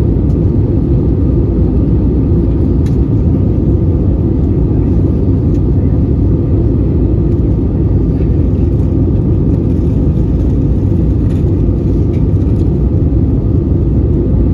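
Steady low rumble of Airbus A320 cabin noise in flight: engine and airflow noise, level and unchanging, with a few faint clicks.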